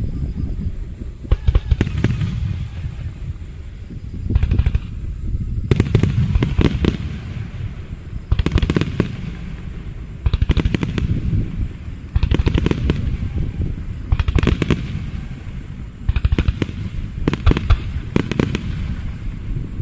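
Aerial fireworks bursting in rapid volleys, clusters of sharp bangs and crackles every second or two, each followed by a low rumbling echo.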